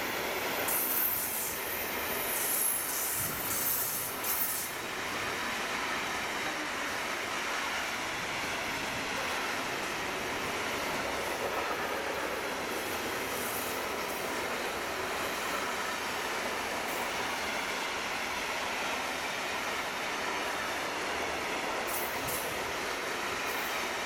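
Freight wagons loaded with lorry semi-trailers rolling past at speed, a steady rushing of wheels on rail. Short high-pitched wheel squeals and clicks come in the first few seconds and again near the end.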